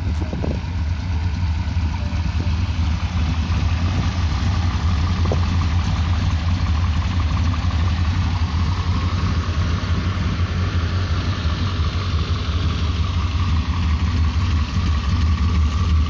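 V8 engine of a 1936 Dodge Business Coupe, fitted with an Edelbrock carburetor, idling steadily with an even low rumble.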